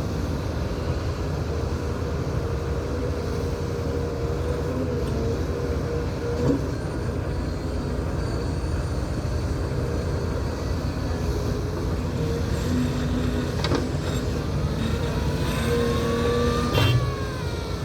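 Large diesel engine of an LCMG MT88 off-highway mining dump truck running steadily, with a few knocks. Near the end a whine rises and then falls.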